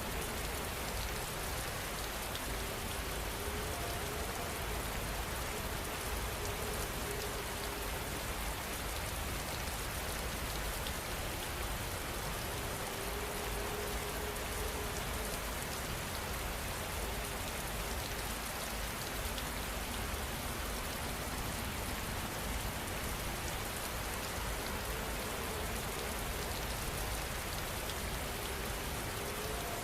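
Steady rain falling, an even hiss of drops striking surfaces.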